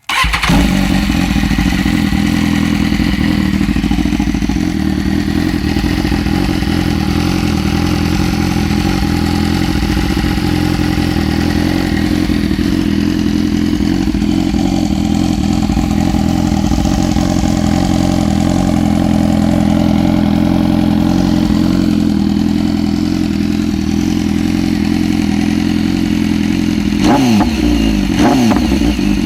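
BMW S1000RR inline-four motorcycle engine starting, then idling steadily through an SC Project exhaust with its baffle valve removed. Near the end come two quick throttle blips, the pitch rising and falling each time.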